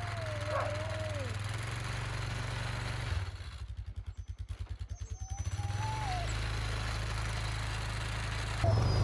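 An engine idling with a steady low hum, which drops and flutters about three seconds in before it steadies again. Dogs whine over it in high, sliding cries.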